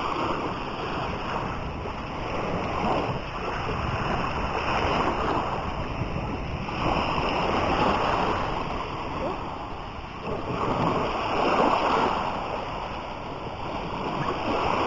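Sea surf washing onto a beach, the noise of the waves swelling and easing every few seconds.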